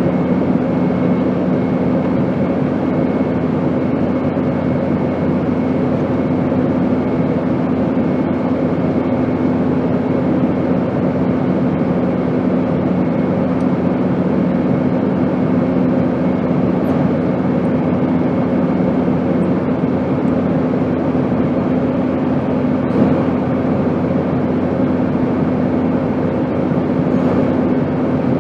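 Steady airplane noise: an even, unbroken rushing drone with a constant low hum and a faint high whine on top, never changing.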